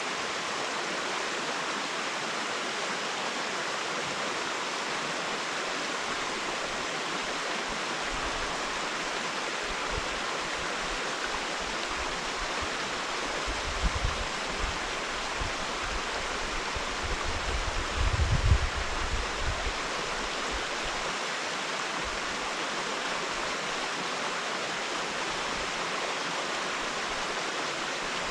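Steady rushing of running water. Low rumbling thumps come through the middle stretch, the strongest about two-thirds of the way in.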